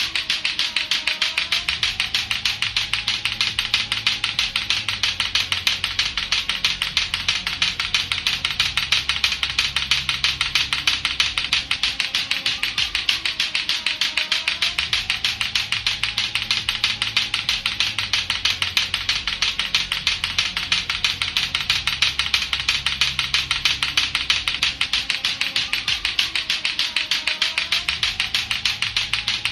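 Latto-latto clacker toy, two hard plastic balls on a string knocking together in a rapid, steady run of sharp clacks, with a faint low musical loop repeating underneath.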